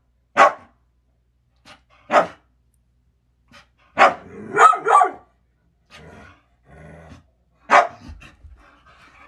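A dog barking: about six short, loud barks, spaced out at first, then three in quick succession a little after the middle, and a last one near the end.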